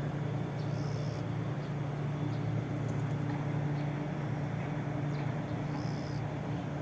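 Steady low engine hum with an even rushing noise, as heard inside a moving vehicle.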